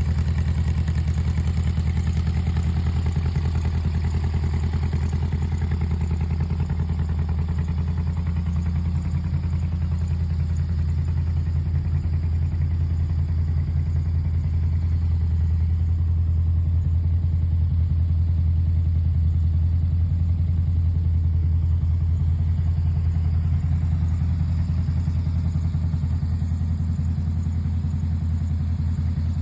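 Volkswagen-based custom trike engine idling steadily.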